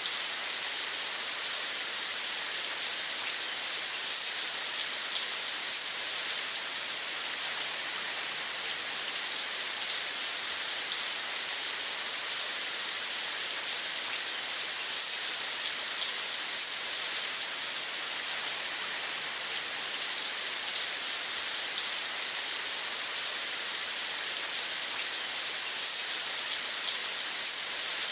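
Steady rain: an even, unbroken hiss of many small drops landing on a surface.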